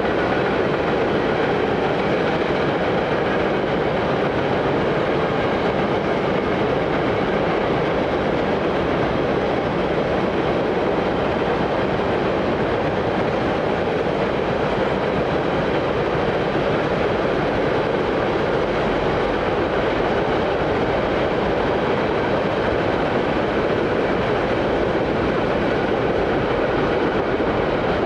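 A train's wheels running on the rails, a steady, unbroken rumble that does not change.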